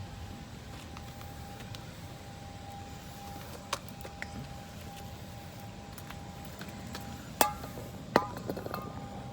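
Steady outdoor rumble with a thin, steady high whine, broken by a few sharp clicks and knocks; the loudest comes about seven seconds in, with another just after and a short cluster of lighter clicks following.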